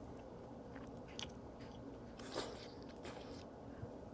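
Faint mukbang eating sounds: a person biting and chewing cheese, with a few short, sharp mouth noises, the loudest about two and a half seconds in.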